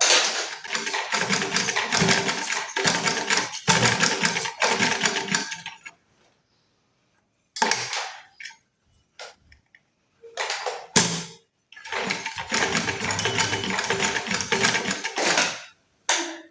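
Repaired Merritt sewing machine stitching in two long runs of several seconds, with short bursts between. It runs smoothly, without the excess noise the customer complained of, and makes only the ordinary sound of a new machine.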